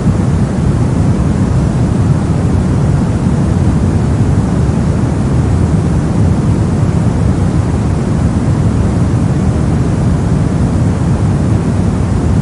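Synthetic brown noise: a steady, deep rumbling hiss with its energy weighted toward the low end and no change or events.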